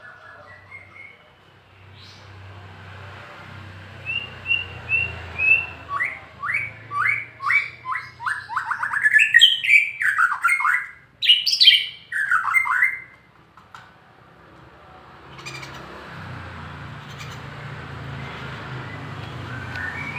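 A kept songbird singing: a few short whistled notes, then a run of falling notes about two a second that speeds up into a louder flourish before stopping.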